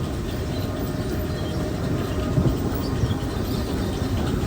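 Steady low mechanical rumble of feed-mill machinery running.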